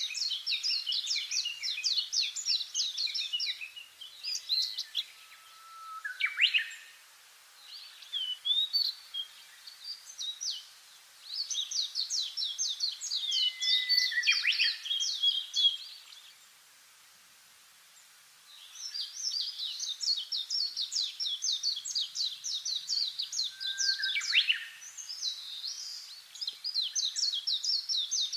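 Songbirds singing in long, fast trills of high repeated notes, in three bouts with short pauses between. A few sharp notes sweep downward in pitch.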